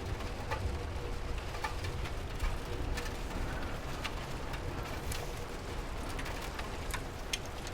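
Steady rain with scattered drips ticking at irregular moments.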